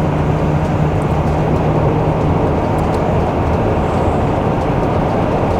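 Motorhome engine and road noise heard inside the cab while driving, a steady loud drone. A low steady hum sits under it and fades out about halfway through.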